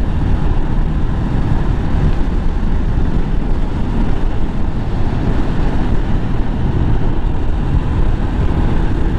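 Motorcycle riding along: a steady low rumble of engine and wind noise on the rider's microphone.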